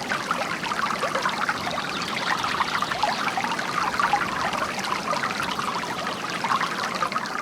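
Water from a bamboo garden fountain pouring and trickling steadily into its basin, a continuous splashing with no let-up.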